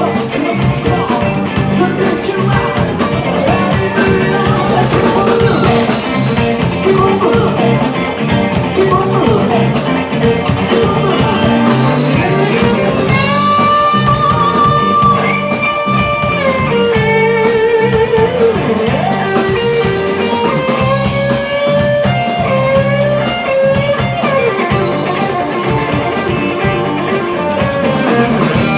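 Live rock band playing over drums and bass, with an electric guitar taking the lead in long held, bent notes with vibrato.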